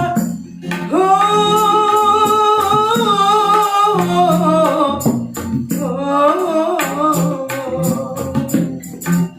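A male street singer holding long, wavering sung notes over kendang hand-drum beats and jingling percussion, with short breaks in the voice near the start and about four seconds in.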